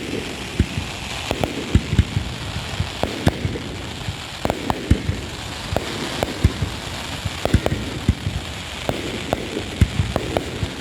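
Fireworks going off in quick, irregular succession: many sharp bangs, a few a second, over a continuous hiss.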